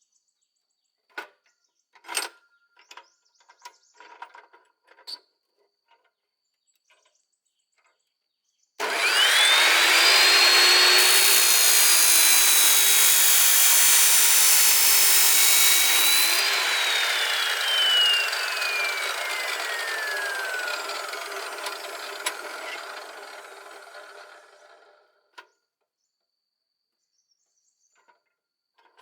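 An electric power tool starts with a quickly rising whine and works on material for several seconds with a loud, rasping noise. It is then released and winds down, its whine falling steadily in pitch and fading over several seconds. Light clicks and knocks of handling come before it.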